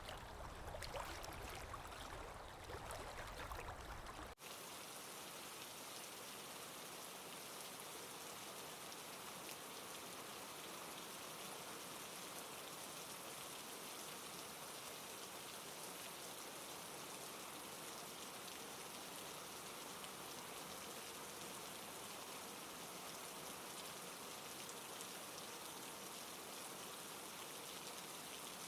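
Running, trickling water for about the first four seconds, then a sudden switch to steady, even rainfall.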